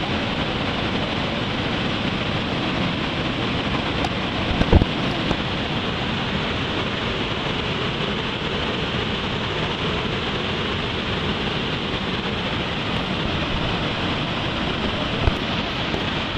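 Steady loud rushing noise of water and wind on a boat ride near the waterfalls, with a brief thump about five seconds in and another near the end.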